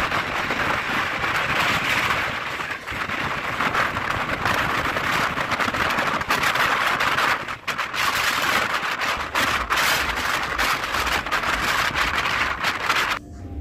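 Suburban electric multiple-unit local train running at speed, heard from on board: a loud steady rush of wheel and wind noise with frequent quick clicks from the track. It cuts off suddenly near the end.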